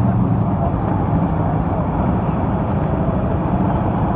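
A vehicle engine idling close by: a steady, low rumble with no change in pitch.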